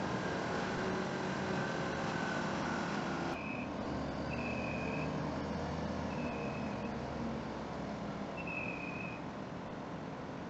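A heavy vehicle's engine runs steadily. A few seconds in, the sound changes abruptly and a reversing alarm starts beeping: four high, even beeps about two seconds apart over the engine.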